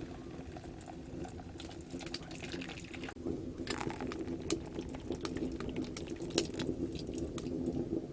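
Water sounds with frequent sharp crackles and clicks, growing louder about three seconds in.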